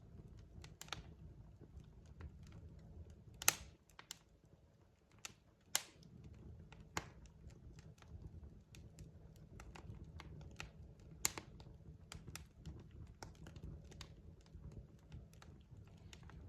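Wood fire crackling: irregular sharp snaps and pops, three of them louder than the rest (about three and a half, six and eleven seconds in), over a low steady rumble from the burning logs.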